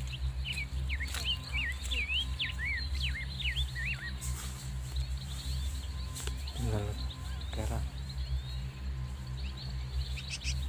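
Small birds chirping in quick whistled notes that sweep up and down, thick over the first three seconds and again near the end, over a steady low hum. Two short pitched calls come about midway.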